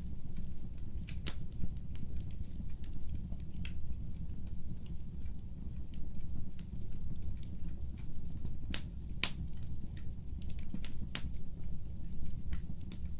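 Fireplace fire crackling: irregular sharp pops and snaps over a steady low rumble, with the loudest pops about nine seconds in and again about eleven seconds in.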